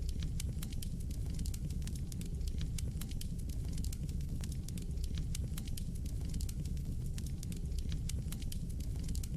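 Wood fire burning in a fireplace: a steady low rumble of flames with dense, irregular crackles and pops from the burning logs.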